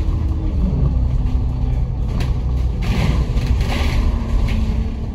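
Bus running, heard from inside the cabin: a steady low engine and road rumble with a faint even drone, brief rattles, and short swells of hiss about two to four seconds in.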